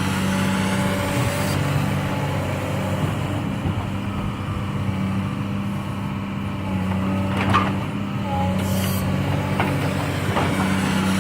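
Heavy diesel engine of an excavator running steadily while it loads logs onto a truck. A few sharp knocks come from about two-thirds of the way in, and there is a short hiss twice.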